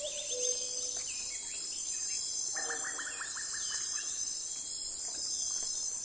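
Insects trilling steadily at a high pitch, with short bird chirps scattered over it and a quick rattling run of chirps about halfway through.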